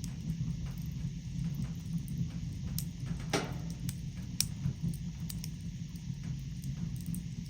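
Wood fire crackling in a fireplace: scattered sharp pops and snaps over a steady low rumble, with two louder pops near the middle.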